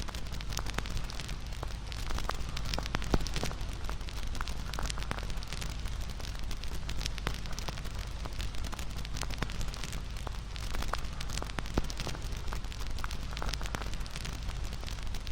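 Wood bonfire crackling and popping steadily, with a low rumble of flame under frequent sharp snaps, the loudest about three seconds in.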